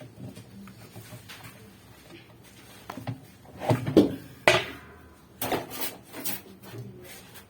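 Scattered knocks and clatters of objects being handled, the loudest a sharp clatter about four and a half seconds in.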